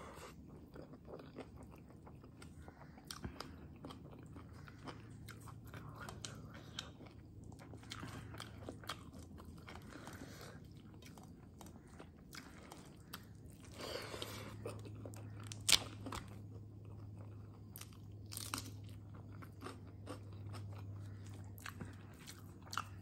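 Faint chewing and mouth sounds of a person eating rice and vegetables by hand, with scattered small clicks and one sharper click about 16 seconds in. A low steady hum runs underneath, stronger from about 14 seconds in.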